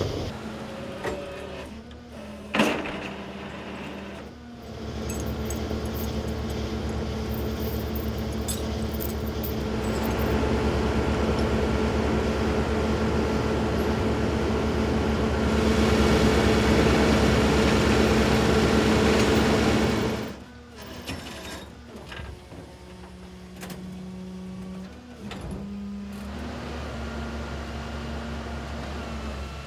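A single sharp knock, like a vehicle door shutting, about two and a half seconds in, then a vehicle engine running steadily with a constant hum, getting louder twice before falling away abruptly about twenty seconds in.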